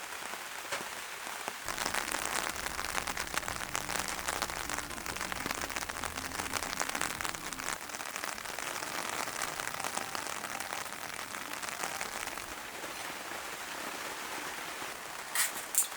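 Steady rain pattering on a tent, a dense run of fine drops, a little heavier for several seconds near the start. Two sharp clicks near the end.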